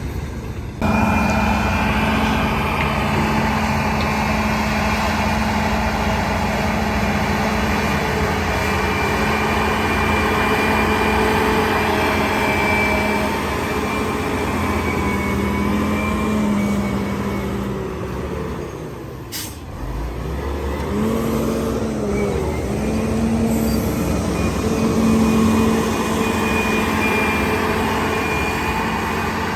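Heavy diesel earthmoving machinery running under load, a steady engine drone with a thin high whine over it. The engine note drops off briefly about two-thirds of the way through, with a single sharp click, then climbs and runs on again.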